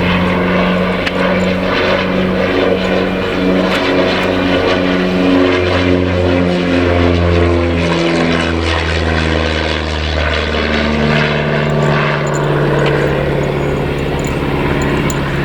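Miles Gemini light twin's propeller engines in a fly-past, running steadily loud with the pitch falling gradually as it passes.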